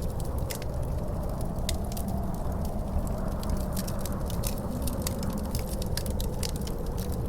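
Wood fire crackling in a fireplace, with many sharp irregular pops over a steady low rumble of wind.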